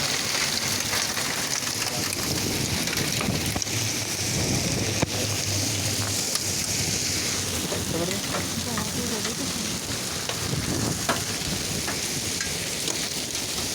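Hail and heavy rain pelting down: a steady hiss with many sharp ticks of hailstones striking.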